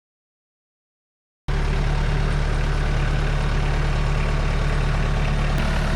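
Dead silence for about a second and a half, then an abrupt cut straight into an engine running steadily at idle, with a deep, even hum.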